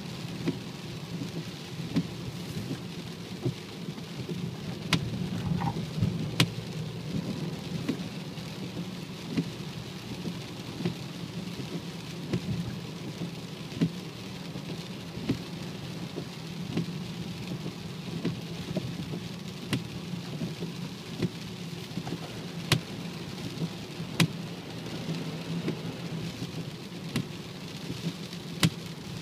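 BMW 535d heard while running: a steady low drone with a noisy rumble, which the owner tags as a whining, howling gearbox. Sharp clicks come roughly every second and a half.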